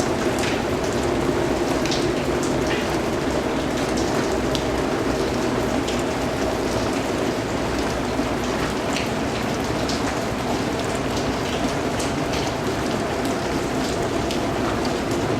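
Steady rain falling, a dense even hiss with many separate drops ticking on a surface throughout.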